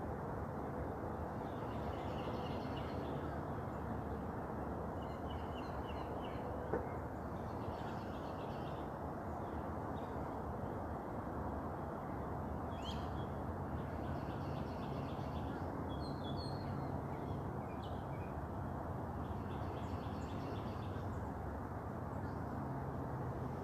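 A songbird singing short phrases of rapid repeated notes, one every few seconds, over a steady low background rumble, with a single sharp click about seven seconds in.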